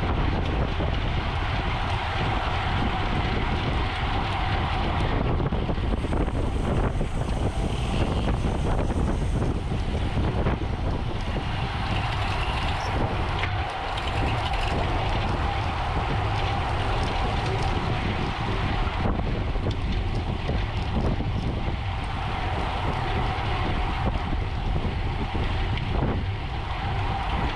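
Steady wind rushing over the microphone of a camera on a racing road bicycle at speed: a continuous low rumble with an even hum above it.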